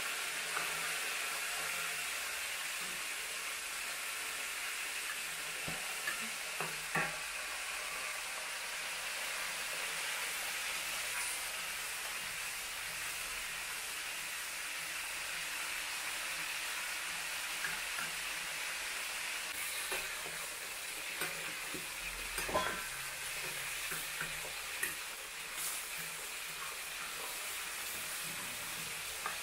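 Chilli paste sizzling as it fries in a hot metal wok, stirred with a metal ladle, with a few short clinks and scrapes of the ladle against the pan.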